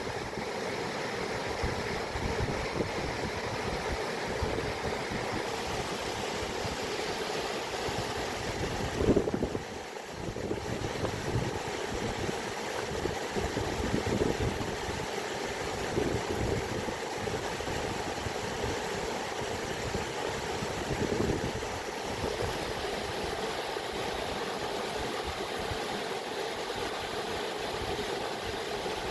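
Running water, a steady rushing noise with a few brief louder surges.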